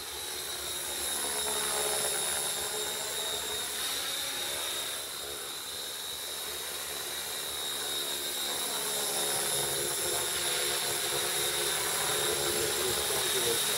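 Electric radio-controlled aircraft flying overhead: a steady high motor whine with rotor and propeller noise. The sound swells as the craft pass by, dips slightly about halfway through, and swells again.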